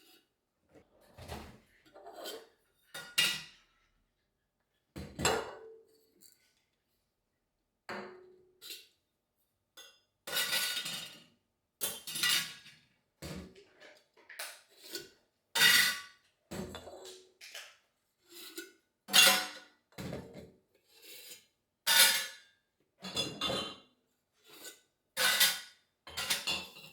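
Dishes and kitchenware being picked up and set down, a long irregular series of separate clinks and knocks about once a second, with short silences between them.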